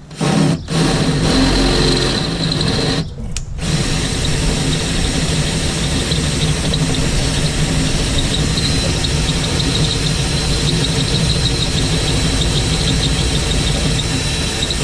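Power tool working the rusted sheet metal of a truck's cab corner, with a high whine over dense noise. It stops briefly twice near the start, then runs steadily to free the panel from a spot weld.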